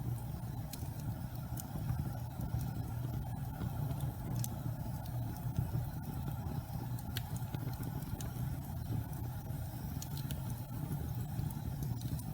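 Wood fire burning in a fireplace: a steady low rumble with scattered sharp crackles and pops from the burning wood, the clearest a little past a third of the way in and again just past the middle.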